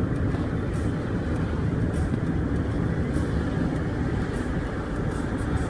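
Steady rumble of a vehicle on the move, engine and road noise with a strong low end.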